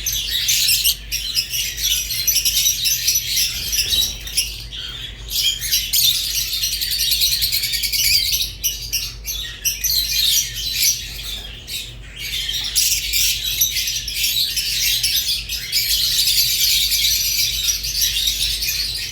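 Rosy-faced and Fischer's lovebirds chattering and chirping continuously in a dense, high-pitched stream of shrill calls, with brief lulls.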